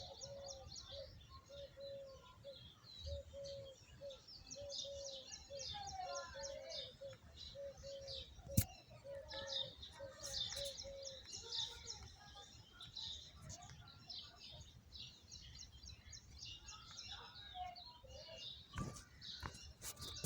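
Many small birds chirping and twittering together in a tree, with a lower bird note repeated two or three times a second through the first half. A sharp click about eight seconds in, and a few more near the end.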